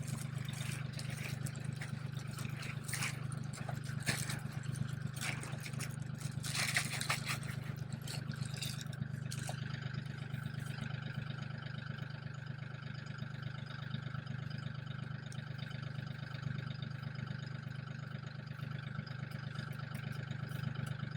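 Scraping and rustling, clustered in the first half, the strongest around the middle, over a steady low hum.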